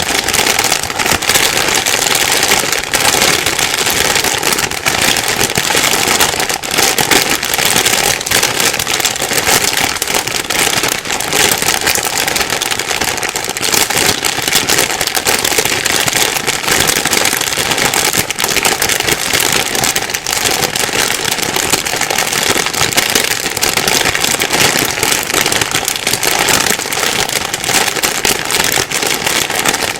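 Plastic bag rustling and crinkling without a break: a dense, steady stream of small crackles.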